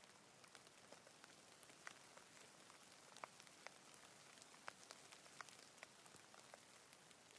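Faint, steady hiss of falling rain, with individual raindrops ticking close by at irregular intervals.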